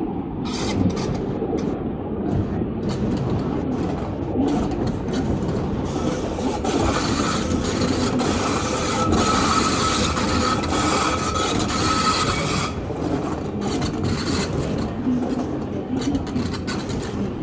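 Rhaetian Railway Capricorn electric multiple unit rolling past on the metre-gauge track, wheels rumbling over the rails. About six seconds in a hissing rasp with a thin high squeal from the wheels comes in and fades after about six seconds.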